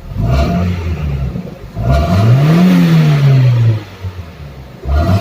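Toyota Corolla AE101's 4A-FE four-cylinder engine revved three times from idle: a short blip, a longer rev that climbs and falls back, then another short blip near the end. It picks up cleanly, no longer misfiring now that a broken coolant temperature (ECT) sensor has been replaced.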